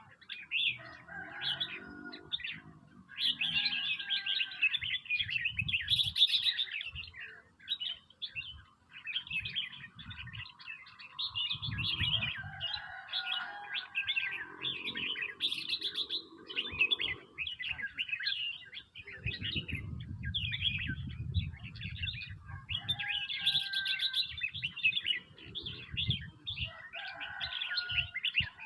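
Red-whiskered bulbuls chirping and calling in quick, busy runs of notes, several birds overlapping. A low rumble sits under the calls at times, most strongly about two-thirds of the way through.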